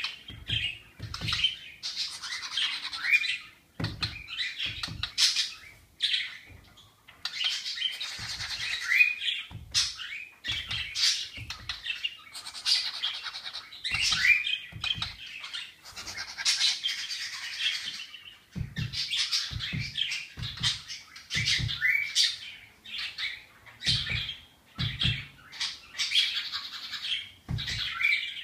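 A small bird calling over and over in quick chirps and harsh squawks, some of them sliding in pitch, with short low thumps scattered among the calls, more of them in the second half.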